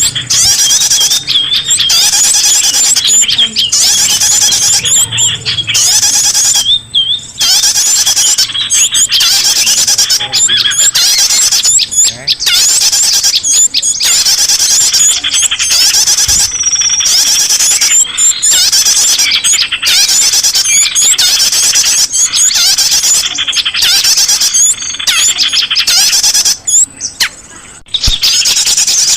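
A dense, noisy chorus of many small birds chirping and squeaking at once, a lure recording used to draw in small birds. It is loud and nearly unbroken, with brief pauses.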